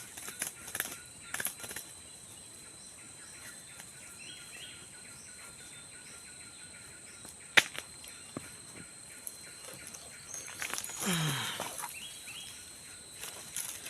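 Rural outdoor ambience: a steady high insect drone with scattered faint bird chirps and small clicks. One sharp click comes about seven and a half seconds in, and a louder sound sweeping down in pitch about eleven seconds in.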